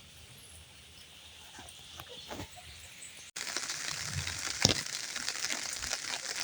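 Light rain falling, scattered drops ticking and crackling over a soft hiss; it becomes louder and denser after an abrupt cut about three seconds in.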